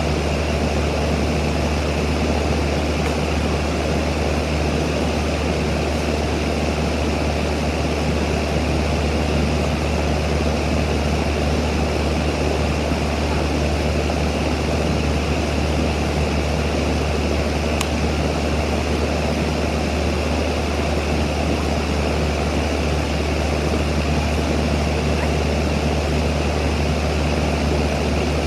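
A steady machine drone: a strong low hum with an even hiss over it, unchanging throughout.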